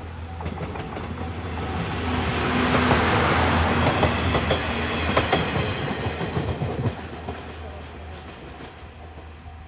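Anpanman trolley train passing close by, its wheels clattering over the rail joints. The sound builds to its loudest about three seconds in and fades as the train moves away.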